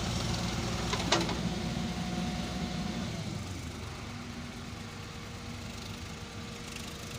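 Diesel engine of a backhoe loader or tractor running steadily, with one sharp metallic knock about a second in. The engine sound drops away after about three seconds, leaving a fainter rumble.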